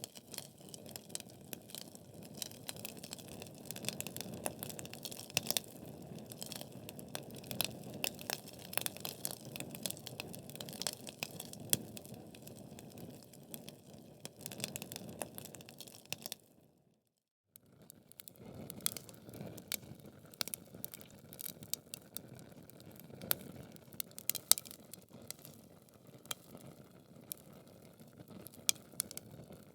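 Wood fire burning in a fireplace: logs crackling with frequent sharp pops over a low rush of flame. About sixteen seconds in, the sound cuts out for about a second, then the crackling resumes.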